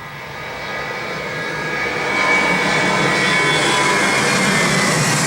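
Airbus A319 jet engines at takeoff power, growing louder over about two seconds and then holding steady, with a whine in the noise.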